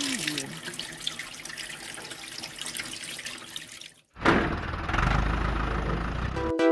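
Water from a small electric water pump spraying and splashing for about four seconds, then cutting off suddenly. A sweeping noise with a low rumble follows, and music begins near the end.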